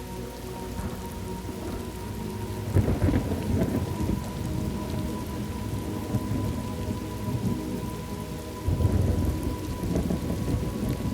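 Steady rain on a thunderstorm ambience track, with thunder rolling in twice, once about three seconds in and again near nine seconds.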